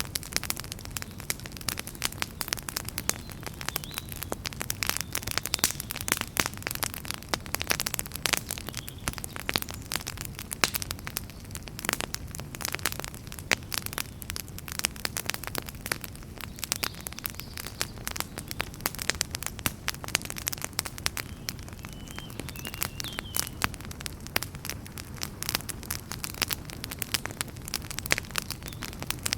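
Fire in a fireplace crackling: many irregular snaps and pops over a steady low rumble of the flames.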